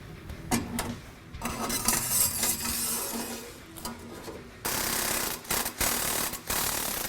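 Stainless steel exhaust pipes knocking and scraping metal on metal as one pipe is worked onto another, with clicks early on and a louder, steady rasping scrape from about two-thirds of the way in.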